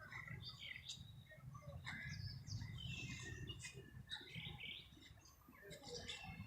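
Faint bird chirps and calls in short, scattered notes, with a low steady rumble underneath.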